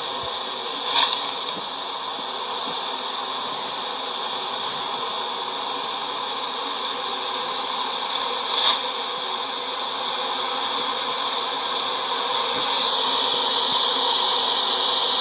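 Steady hum of a honey bee swarm around a freshly filled hive box, with two short knocks, one about a second in and one near the end of the second third, and the hum getting a little louder near the end.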